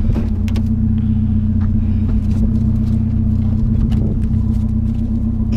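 Pickup truck engine idling steadily, a constant low drone, with a few faint clicks.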